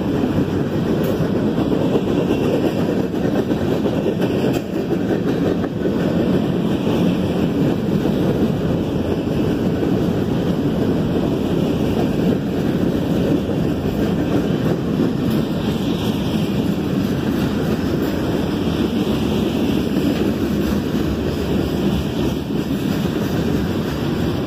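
Freight train cars rolling past at a steady speed: a continuous rumble of steel wheels on the rails.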